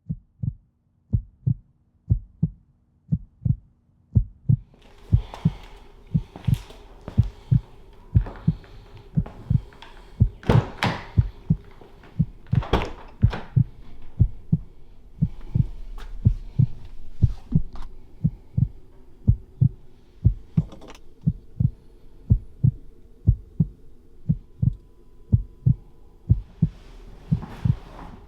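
A steady, heartbeat-like low thump about twice a second. After about four seconds a low, steady rumble and hum join underneath, with a few sharper cracks among the thumps.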